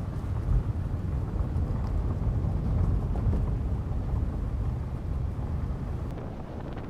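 Strong gusting wind buffeting the microphone, a deep rumbling noise that swells and eases.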